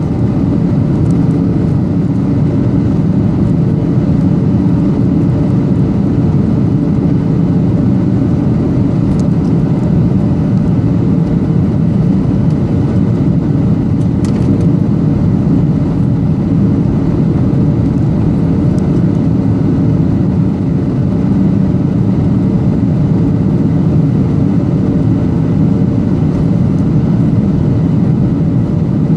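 Steady in-flight cabin drone of a Boeing 737-800: the CFM56-7B jet engines and the rush of air along the fuselage, with a faint steady hum running through it. A few faint ticks can be heard in the middle.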